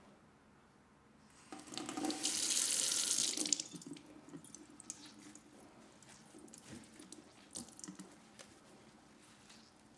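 Kitchen tap running for about two seconds, water splashing into the sink, then shut off. A few light clicks and knocks follow.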